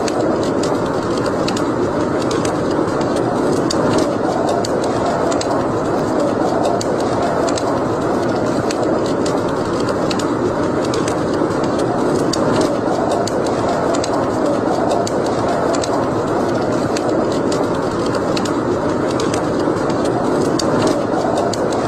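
Wood fire burning in a fireplace: a steady rushing hiss with frequent small sharp crackles and pops scattered throughout.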